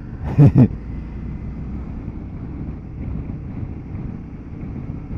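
Motorcycle engine running on the move under steady wind noise on the microphone, with two short loud bursts about half a second in.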